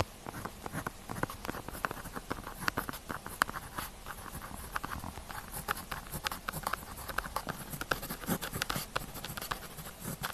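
Pen tip writing on paper in quick, irregular strokes: scratching and light taps.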